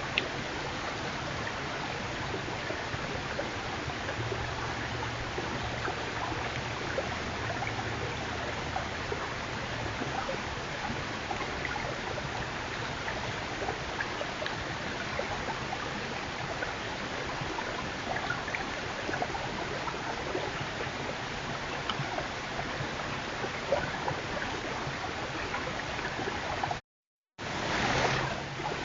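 Steady rushing noise with a faint low hum and a few small scattered clicks; it cuts out completely for about half a second near the end and comes back with a short swell.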